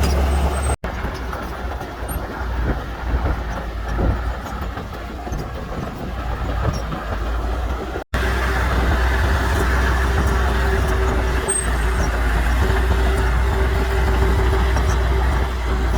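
Heavy construction machinery running, a steady low diesel rumble with a steady mid-pitched whine in the second half. The sound drops out for an instant twice, about a second in and about halfway through.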